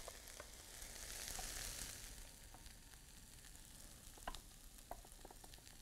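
Green peppers, onions and sausage meat sizzling faintly in a sauté pan, the hiss strongest in the first couple of seconds, with a few light clicks of a wooden spoon stirring against the pan.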